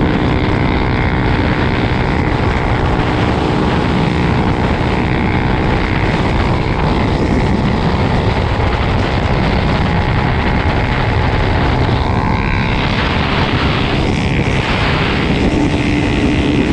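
Motocross dirt bike engine running steadily while riding.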